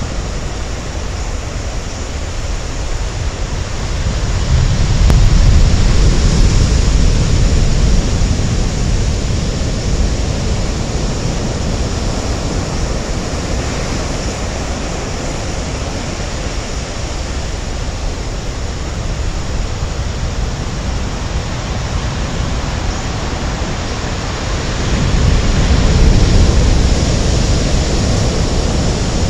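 Typhoon-rough sea: heavy surf with a steady noisy rush and deep rumble, with wind buffeting the microphone. It swells louder twice, about five seconds in and again near the end, as big waves break.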